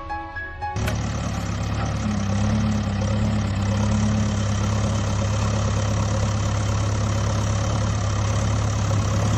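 Vehicle engine running steadily, cutting in abruptly about a second in over the background music.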